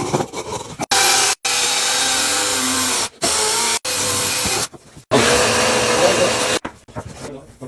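An electric motor running in about five bursts of one to two seconds, each starting and stopping abruptly, with a steady whine under a loud rushing noise.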